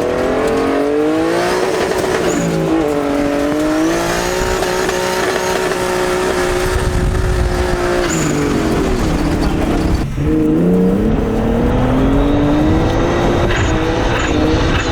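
Turbocharged RB20DET straight-six engine pulling hard under load, its pitch climbing, holding steady, then falling away. About ten seconds in it cuts briefly, as at a gear change, then climbs again.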